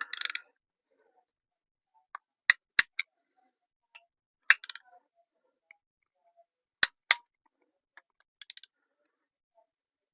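Hand tools working engine bolts: short rattling bursts of ratchet clicks and several single sharp metallic clicks, spread out with pauses between them.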